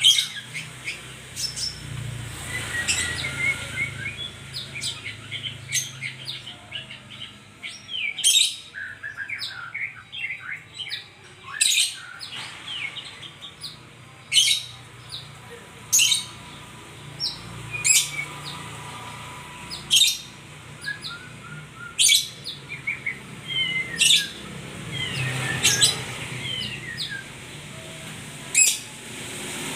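White-rumped shama (murai batu) singing: runs of varied whistled notes and glides broken by sharp clicking notes every second or two, over a faint low hum.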